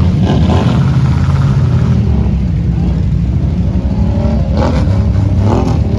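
A loud off-road vehicle engine running with a heavy low rumble, its revs rising and falling several times in the second half.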